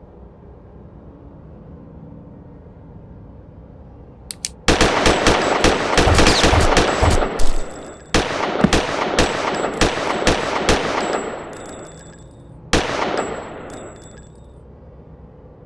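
Gunfire: rapid shots break out about a third of the way in, a dense run followed by a brief pause, then a slower run of single shots, and one last shot near the end, each echoing off the surroundings.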